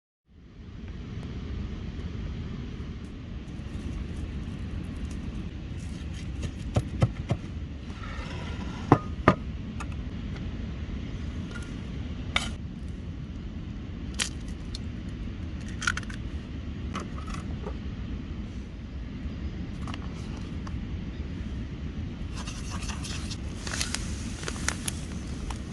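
Scattered clinks and scrapes of cooking utensils against dishes and metal, a few ringing briefly, over a steady low rumble; a denser scraping stretch comes near the end.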